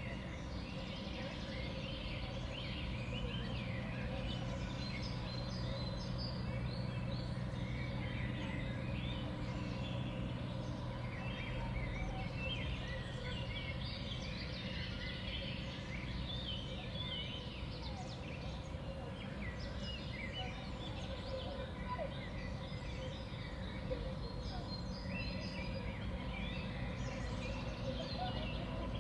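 A flock of small songbirds chirping and calling at a winter feeder, many short overlapping calls coming in busy clusters, over a steady low hum.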